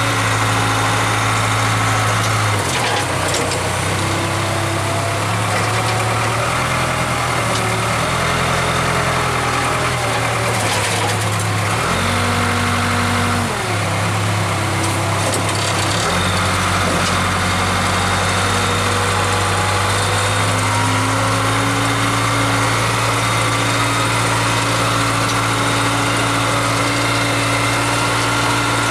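Diesel engine of a Case 580K loader backhoe running steadily, its pitch dipping and rising a few times: around three seconds in, and again between about twelve and sixteen seconds.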